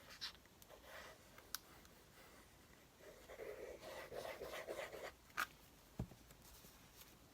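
Faint paper handling: a few light ticks and rustles, then about two seconds of rubbing as a paper cut-out is pressed and smoothed down onto a glued collage page, followed by a sharp click and a soft thump.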